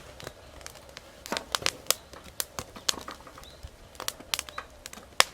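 Wood fire crackling in a fire pit, with sharp irregular pops and snaps, the loudest one near the end.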